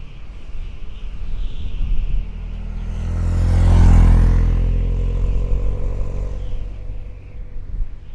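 A motor vehicle drives past, its engine and road noise swelling to a peak about four seconds in and then fading away.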